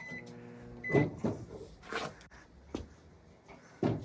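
Microwave oven being set and handled: a short high keypad beep, a brief steady hum, a second beep, then a loud knock about a second in and several quieter knocks and clatters.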